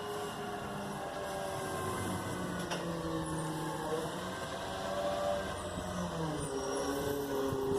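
Garbage truck running, its engine and machinery note dipping and rising in pitch a few times, then holding a steadier, louder tone near the end.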